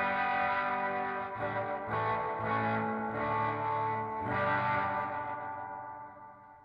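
Electric guitar (a PRS SE Custom 24) playing through the When the Sun Explodes reverb pedal into a clean amp and a 2x12 Vintage 30 cabinet. Chords are struck about two seconds apart, each ringing out in a wash of reverb, and the last one fades away near the end.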